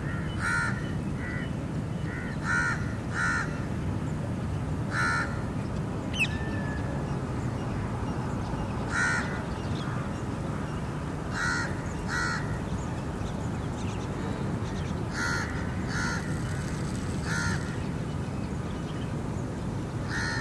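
Short, harsh bird calls, some single and some in quick pairs, repeated every second or several seconds over a steady low rumble.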